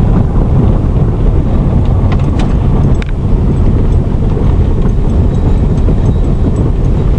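Steady, loud low rumble of a car on the move: road and wind noise, with a few faint clicks and rattles.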